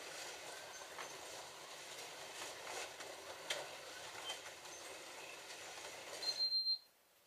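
Several small electric slot cars running round a plastic Scalextric track: a steady whirr of the motors with light clicking from guides and pickup braids over track joints. Near the end a short high electronic beep sounds, and the track goes quiet as the cars stop.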